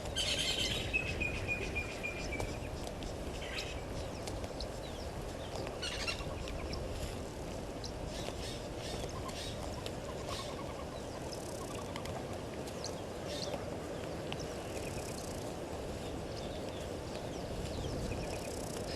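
Wild birds calling: a clear whistled call sliding gently down in pitch for about two seconds at the start, then scattered short calls, over steady background noise.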